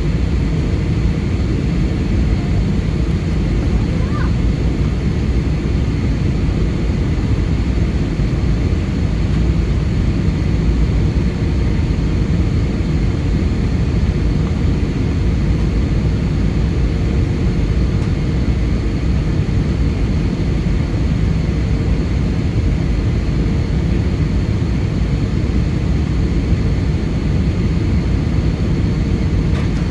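Steady cabin noise inside an Airbus A320 airliner: an even, low engine and airflow rumble with a faint constant tone.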